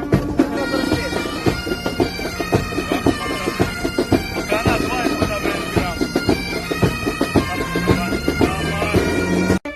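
Military pipe band playing: bagpipes over a steady drone, with dense drum strokes. The music cuts off abruptly just before the end, and different music starts.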